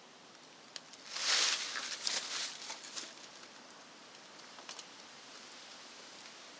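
A brief rustling scrape about a second in, followed by a few small clicks and rustles up to about three seconds in, then faint background hiss: handling noise from working on wiring.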